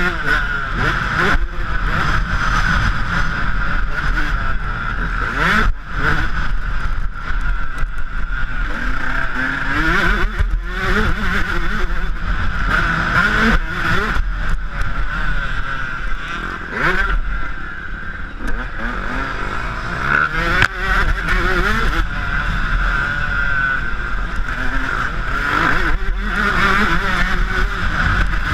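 Yamaha YZ125 two-stroke motocross bike engine revving hard and falling back again and again, its pitch climbing several times as it accelerates.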